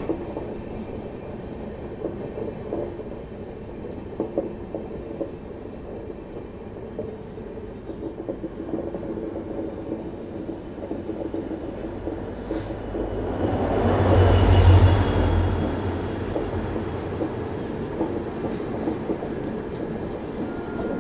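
Express train running along the track, its wheels clicking over the rail joints. About two-thirds of the way through, a louder low rumble swells and fades.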